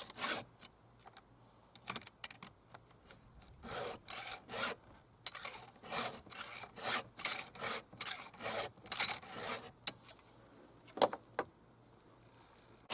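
Stihl 2-in-1 chainsaw file sharpener rasping across a saw chain's cutting teeth and depth gauges: runs of quick back-and-forth file strokes with short pauses between teeth. The strokes stop about ten seconds in, followed by a couple of light ticks.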